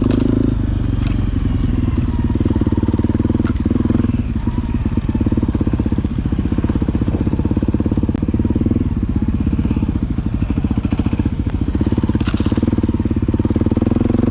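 Motorcycle engine running at low revs: a loud, steady, even putter, smoother for the first few seconds and then settling into a plain pulse.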